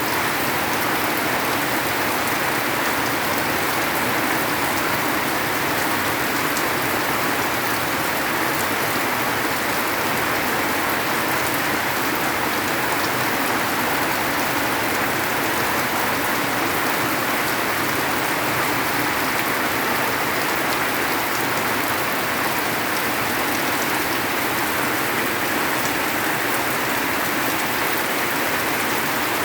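Heavy downpour of rain falling on surfaces, a dense, steady hiss and patter.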